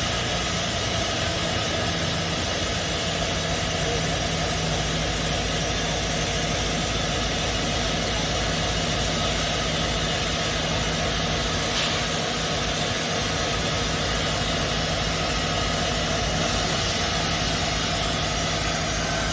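Locomotive running at a standstill: a steady, loud, unbroken engine noise with a low hum underneath.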